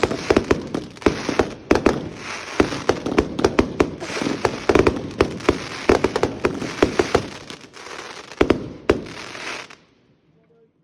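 Fireworks going off: rapid sharp bangs, several a second, over a continuous crackle, stopping abruptly near the end.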